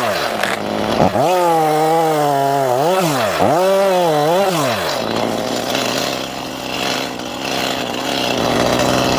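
Stihl two-stroke chainsaw at high revs, its pitch dipping and recovering several times, then dropping to a lower steady idle about five seconds in.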